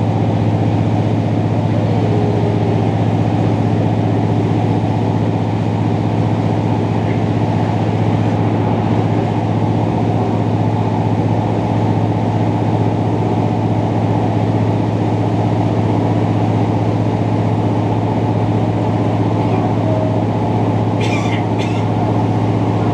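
Diesel passenger train's engine running with a steady low drone, heard from inside the carriage. A couple of short clicks come near the end.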